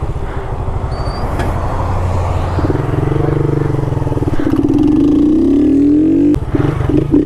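Honda CG 160 Start's single-cylinder four-stroke engine, with an aftermarket Polimet tin exhaust, pulling away and accelerating: the revs step up about halfway through, climb steadily, then break with a sharp click near the end before picking up again.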